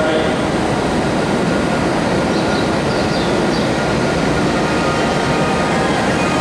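W7 series Shinkansen train pulling out of the platform and gathering speed: a steady rush of running noise with faint whining tones above it.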